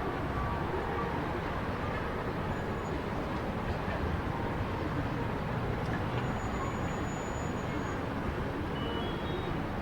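Steady low rumble of road traffic, with a faint thin high whistle lasting a second or two about six seconds in and a few short high chirps near the end.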